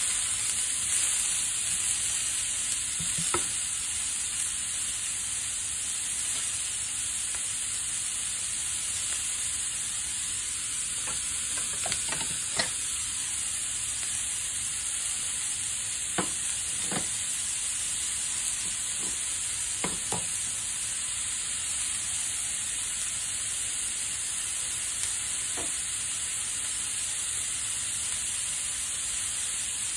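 Sausages and sliced onions sizzling steadily in a nonstick frying pan, stirred with a utensil in the first few seconds. A handful of short, sharp pops break through the steady hiss.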